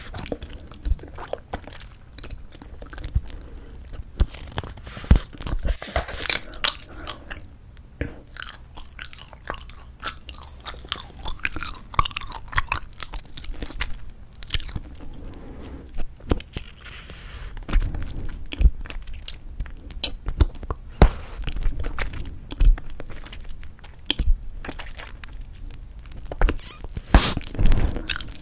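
Close-miked chewing of soft tube bubblegum: wet, sticky smacking with a steady, irregular stream of sharp clicks and pops.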